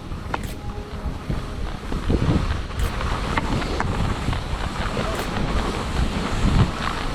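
Wind buffeting the microphone while skiing downhill, with the rushing hiss of skis over snow. The rumble swells in gusts and a few sharp clicks come through.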